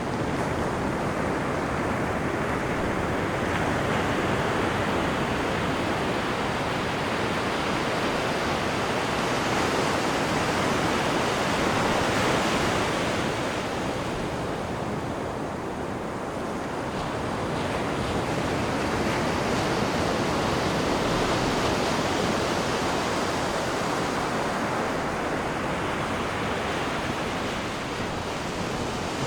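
Sea water rushing and churning in the wake off the stern of a cruise ship: a steady wash that swells about a third of the way in, eases briefly just past halfway, then builds again.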